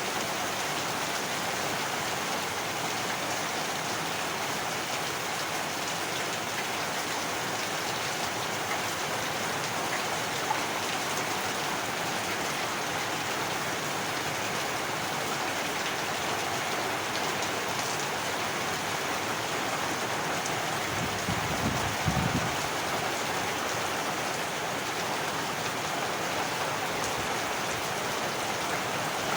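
Heavy rain falling steadily, with a brief low rumble a little past two-thirds of the way through.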